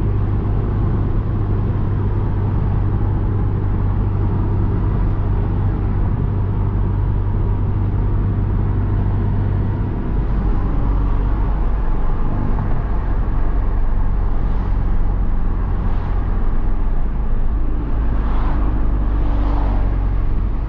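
Tuned Volkswagen Golf R's turbocharged four-cylinder engine and road noise while driving: a steady low drone for the first half, then the engine note changes and rises and falls toward the end.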